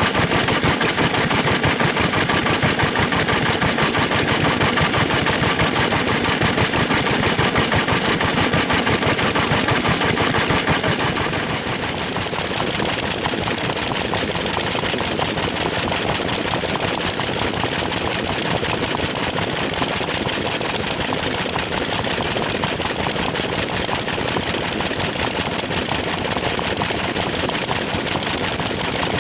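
Old Japanese stationary engines (hatsudōki) running with a fast, even clatter of firing strokes. About twelve seconds in the sound changes and drops a little in level.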